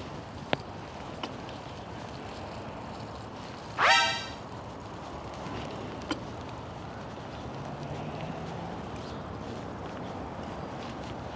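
Steady outdoor background noise with a few faint clicks, broken about four seconds in by one brief, loud, rising squeal.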